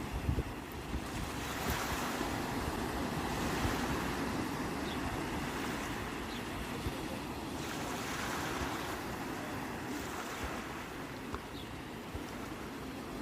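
Sea waves washing in, rising and falling in surges every few seconds, with wind buffeting the microphone near the start.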